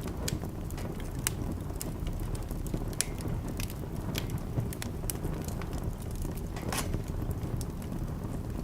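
Wood fire in a fireplace crackling, with irregular sharp snaps and a few louder pops over a steady low rumble.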